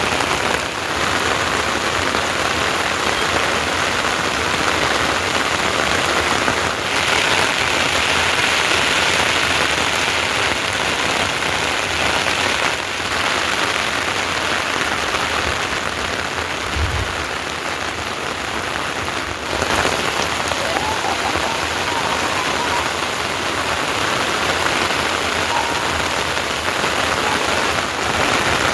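Steady heavy rain falling, a dense even hiss with no let-up. There is a brief low thump about two-thirds of the way through.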